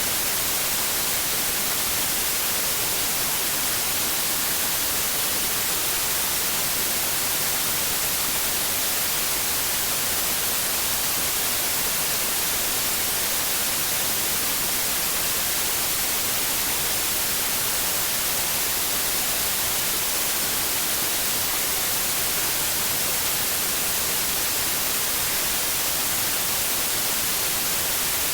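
Steady white noise: an even, unchanging hiss that is brightest in the treble, played as a sleep aid for babies.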